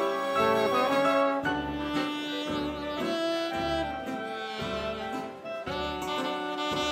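Big band playing an instrumental 1930s-style swing dance number, held notes from the horns over a steady beat from the rhythm section.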